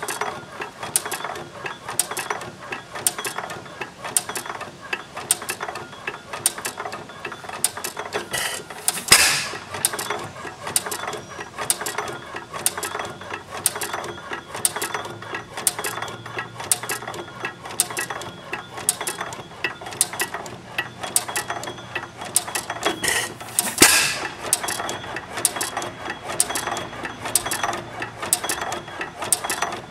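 10 hp John Lauson hit-and-miss engine running, its mechanism clicking rhythmically several times a second as the flywheels coast. It fires with a louder bang twice, about fifteen seconds apart, which is typical of a hit-and-miss governor holding the speed.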